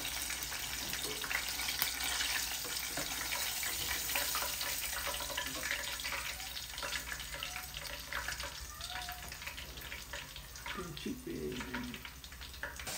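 Chicken pieces frying in hot oil, a steady sizzle full of fine crackles.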